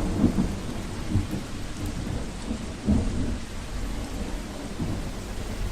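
Steady heavy rain with low rolling rumbles of thunder.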